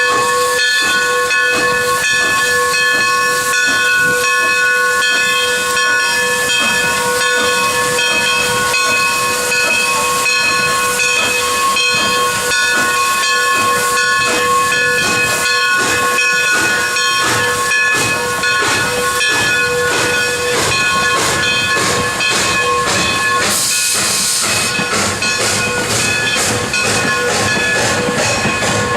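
Steam locomotive (Southern Pacific 4-6-2 No. 2472) venting steam: a loud, steady hiss carrying several held high tones, broken by frequent short chuffs. There is a brighter burst of high hiss about 24 seconds in.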